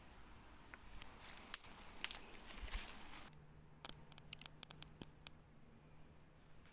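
Irregular patter and sharp crackling clicks over a hiss. About three seconds in the background suddenly drops quieter, leaving a faint steady low hum and a quick run of clicks.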